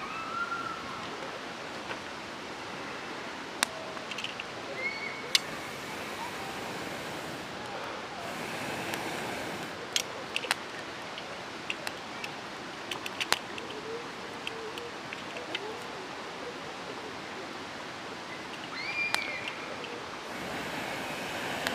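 Wood campfire burning, with a steady hiss and scattered sharp crackles and pops.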